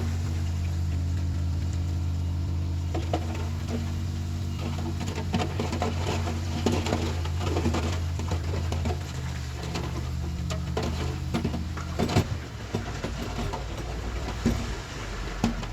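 Komatsu D31PX bulldozer's diesel engine running steadily, with scattered metallic clanks and knocks. The engine note drops a little about nine seconds in.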